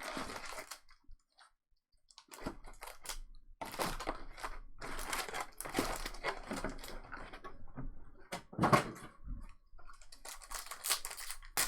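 Irregular clicking and rustling handling noises, with a short near-silent pause about a second in.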